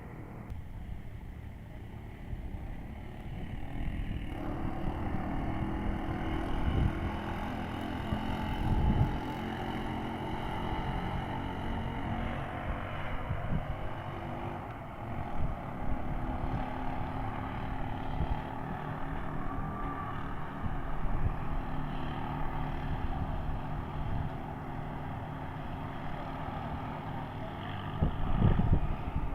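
A vehicle engine running steadily while driving, its pitch picking up about four seconds in, over road noise and a few low bumps.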